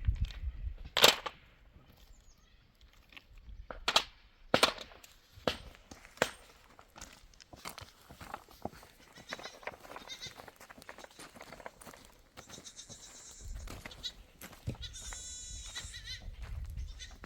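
Goats bleating in high, wavering calls, mostly in the second half, with the longest call about two-thirds of the way through. Several sharp knocks come earlier, the loudest about a second in.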